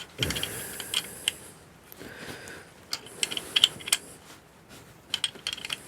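Small hand tools clicking and scraping on metal as a valve tappet adjuster and its locknut are set on a 1929 Riley 9's engine. The sharp clicks come in irregular clusters: near the start, about three seconds in, and near the end.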